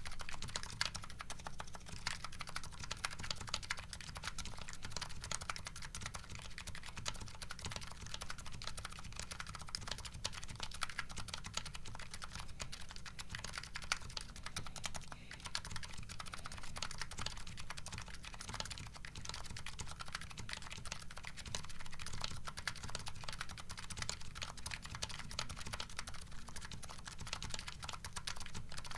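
Continuous typing on a Nuxros Kraze custom keyboard fitted with MetaKeebs MetaPulse electrocapacitive switches and JCS keycaps: a steady, dense stream of key clicks and thocks.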